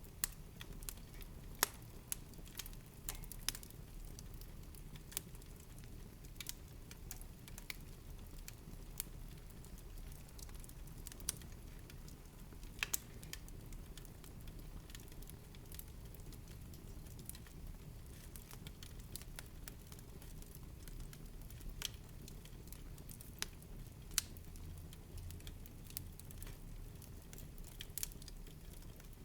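Wood fire burning in a fireplace: irregular sharp crackles and occasional louder pops over a low steady rumble of the flames.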